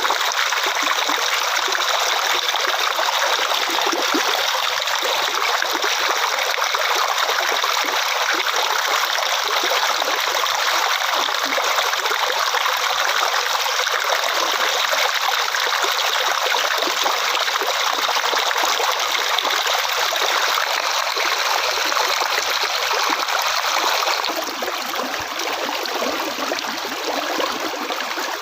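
Flowing water running steadily, an even rushing trickle. About 24 seconds in it changes abruptly to a slightly quieter, lower-sounding flow.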